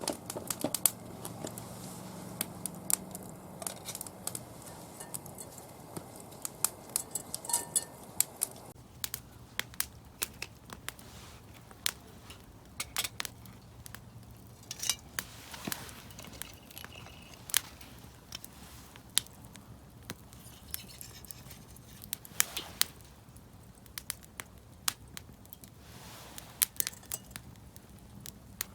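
Wood fire crackling, with frequent sharp, irregular pops.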